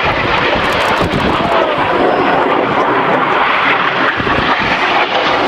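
Jet engines of Red Arrows BAE Hawk trainers in flight: a loud, steady rush of jet noise.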